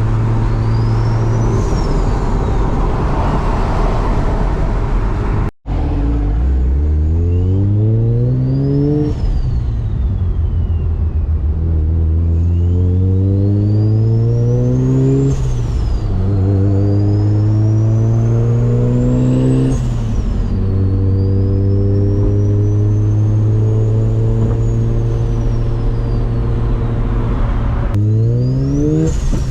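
Turbocharged car engine accelerating hard through the gears. The engine pitch climbs and falls back at each shift, about four times, with a high turbo spool whistle rising and falling along with it. There is steady cruising at the start and a brief cut-out after about five seconds.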